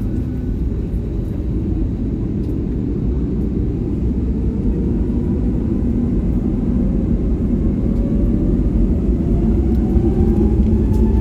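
Airbus A320 jet engines: a steady low rumble, with a whine that rises steadily in pitch from about halfway through as the engines spool up.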